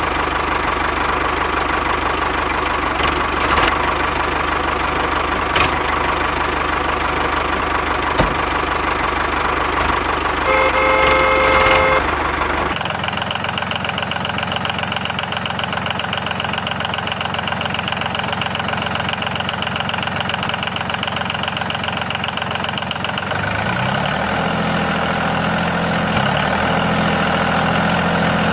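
A small engine running steadily, with a brief horn-like tone about eleven seconds in. The sound changes abruptly near thirteen seconds, and from about twenty-four seconds its pitch rises in steps, as if revving.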